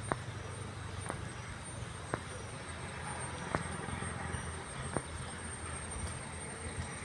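Steady low rumble of road traffic or an idling vehicle engine, with sharp clicks about once a second.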